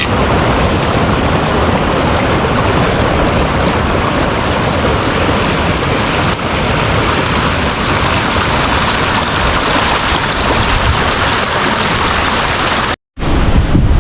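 Steady, loud rushing water, with a brief break near the end.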